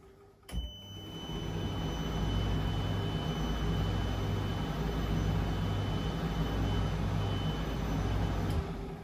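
Privileg Sensation 952 S top-loader washing machine's motor switching on with a click and running the drum for about eight seconds with a low, pulsing hum and a thin high whine, then switching off with a click and winding down.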